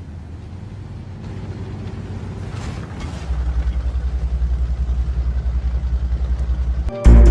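Low vehicle rumble, which from about three seconds in becomes a heavy, regular throbbing of about five pulses a second. Loud music cuts in abruptly just before the end.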